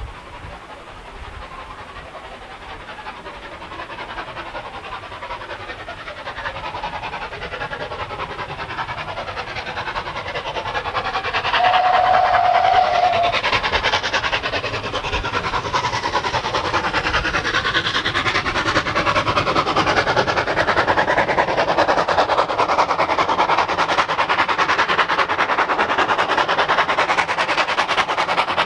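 Steam train approaching and running close by, its sound growing steadily louder, with one short steady whistle blast about halfway through.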